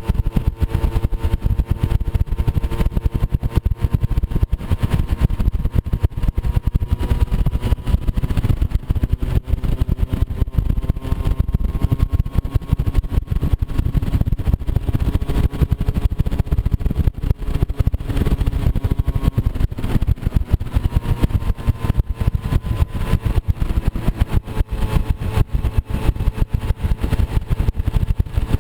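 Moped scooter's small engine running steadily under way, its pitch drifting gently up and down over a low rumble.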